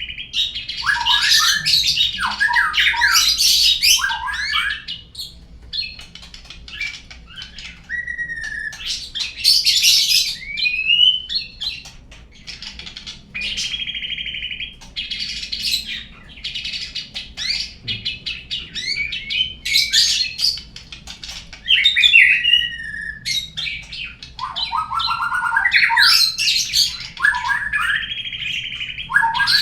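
A loud, varied songbird song used as a lure recording to set a captive murai singing: quick falling notes, sliding whistles, held buzzy notes and fast trills with some harsh calls, in phrases separated by short pauses.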